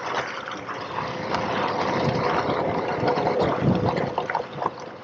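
Steady rushing ride noise of a recumbent trike rolling along the trail, tyre and wind noise, with a faint steady hum underneath.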